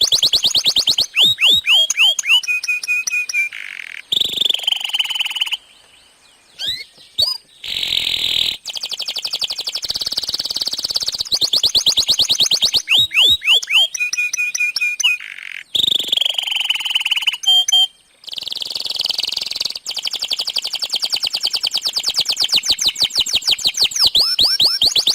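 Domestic canary singing a long, continuous song: fast rolling trills of rapidly repeated high notes, broken by a few falling whistled slides and brief pauses about six seconds in and again near eighteen seconds.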